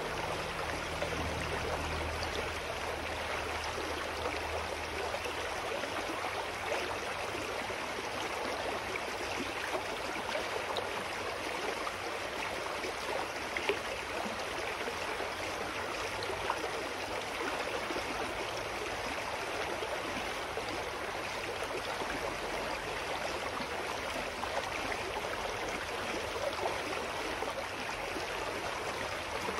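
Forest stream flowing steadily, an even rush and gurgle of running water. A faint low hum fades out in the first few seconds.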